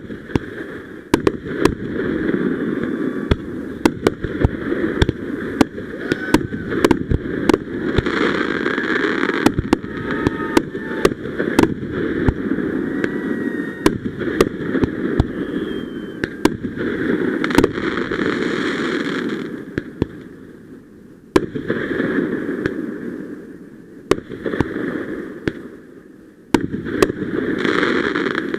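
Fireworks going off in a rapid series of sharp bangs, dozens of them, over a dense rush of crackling noise. The noise drops away briefly twice in the last third, then picks up again.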